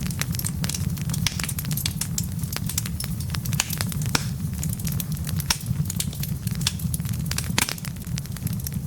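Wood fire burning in a fireplace: dense, irregular crackles and pops from the logs over a steady low rumble of the flames.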